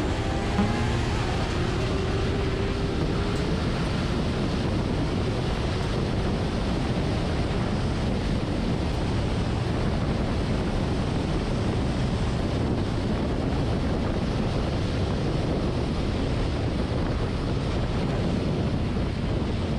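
Steady wind rush over the microphone of a motorcycle riding at speed, with a faint rising engine note in the first few seconds.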